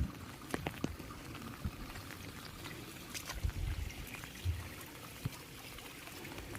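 Heavy rain falling steadily, with water pouring and trickling and many scattered sharp drips. A couple of low thuds come about halfway through.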